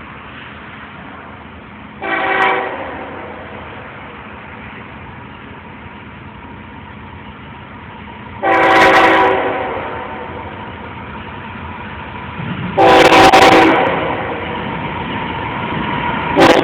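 Diesel locomotive air horn blowing on a loaded coal train: a short blast about two seconds in, two longer blasts about eight and thirteen seconds in, and a brief one at the very end, over the steady rumble of the train.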